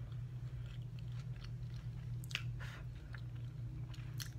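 A person chewing food close to the microphone, soft irregular mouth clicks and smacks, over a steady low hum.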